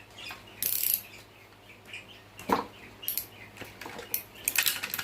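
Ratchet wrench clicking in short runs as an engine bolt is tightened, with a sharp metal knock about two and a half seconds in.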